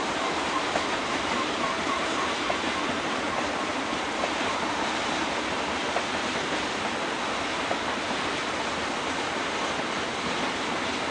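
Freight train of tank cars, covered hoppers and boxcars rolling past on the rails: a steady rushing noise with a few faint clicks of wheels over rail joints.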